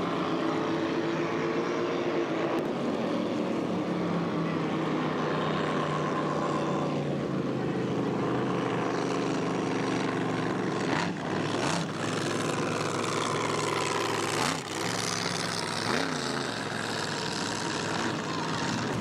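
Racing boat engines running hard. The engine note falls away about seven seconds in, then rises and falls quickly several times in the last few seconds.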